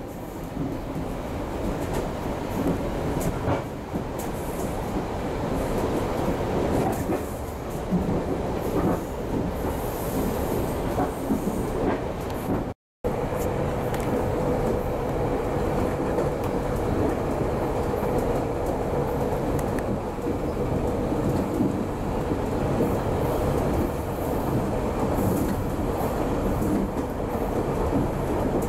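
GO Transit commuter train running at speed, heard from inside the coach: a steady rumble of wheels on the rails. The sound cuts out for a moment about halfway through, after which a steady hum runs under the rumble.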